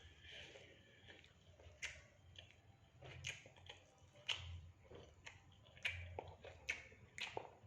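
Faint close-up eating sounds: chewing fried rice and fried fish, with scattered sharp clicks and soft low thuds.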